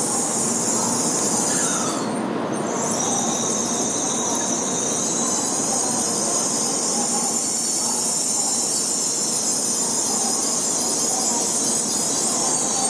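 N700-series Tokaido Shinkansen trains moving slowly through the station: one pulls out past the camera, and near the end another creeps in along the platform. A constant rumble runs under a steady high-pitched wheel squeal, which drops out briefly about two seconds in.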